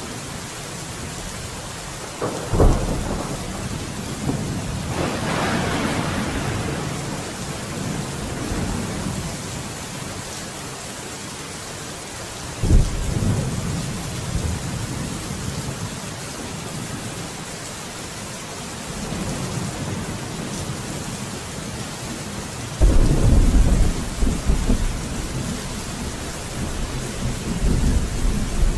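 Steady heavy rain with thunder: a sharp clap and rumble about two seconds in, more rolling rumbles a few seconds later and near the middle, and the loudest, long low rumble in the last part, with a further peal near the end.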